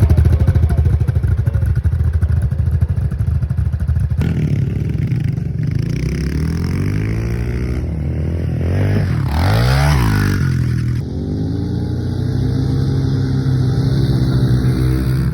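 Honda CRF110 pit bikes' small single-cylinder four-stroke engines revving as they ride the track, loudest in the first few seconds, with engine pitch sweeping up and down about nine to ten seconds in as a bike passes close.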